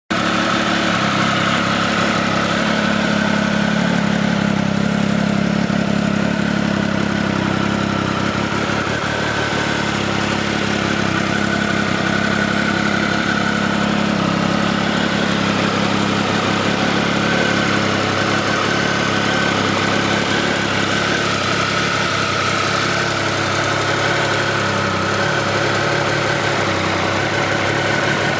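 Triumph Speed Triple 1050 RS's inline three-cylinder engine idling steadily.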